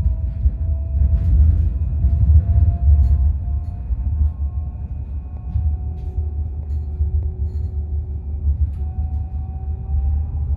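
Roslagsbanan narrow-gauge electric train running, a steady low rumble with a faint whine slowly rising in pitch.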